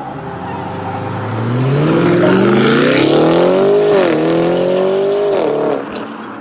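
A modified car's engine accelerating hard: its pitch climbs steadily, drops sharply at a gear change about four seconds in, climbs again, then falls away as the driver lifts off near the end.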